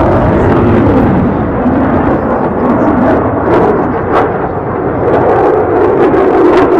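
Display aircraft flying past with a loud, steady engine roar, broken by a few sharp crackles about halfway through and near the end.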